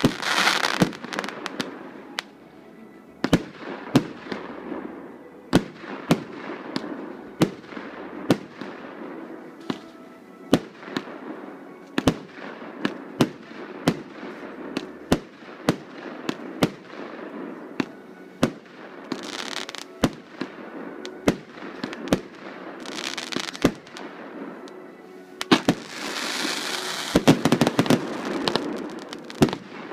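Fireworks going off: a steady run of sharp bangs about one a second, with short spells of crackle a few times and a denser, louder stretch of crackling and bangs near the end.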